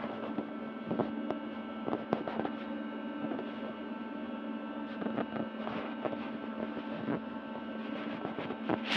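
A steady hum with a constant pitch and several higher steady tones, broken by occasional short clicks and knocks.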